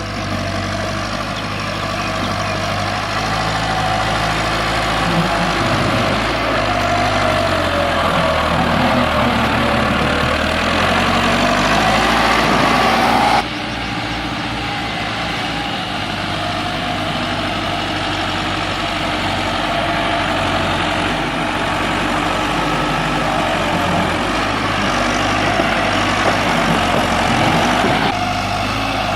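Farm tractor's diesel engine running hard and revving, shifting in pitch. The sound changes abruptly about halfway through and again near the end, like cuts between clips.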